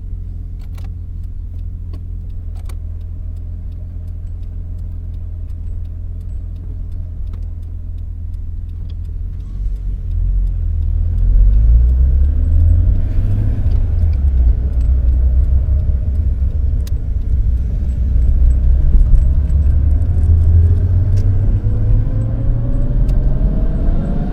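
Nissan Skyline HCR32's two-litre straight-six engine running at steady low revs, quiet for about ten seconds and then noticeably louder for the rest of the time, with a few faint light ticks; near the end the revs begin to rise.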